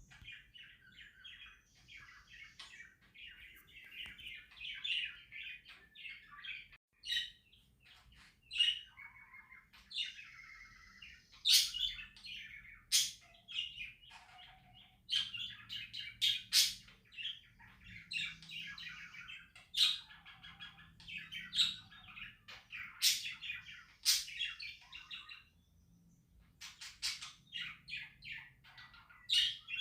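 Pet budgerigars chattering and warbling in a quick, continuous stream, with sharp, loud chirps cutting through now and then and a brief lull near the end.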